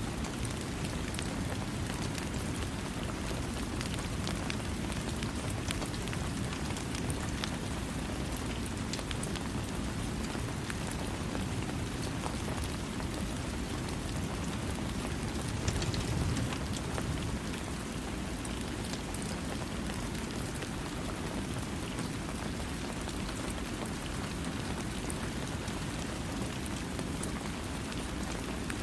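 Steady rain falling: an even, low-weighted rush with scattered sharper drop ticks, swelling briefly about halfway through. No thunder.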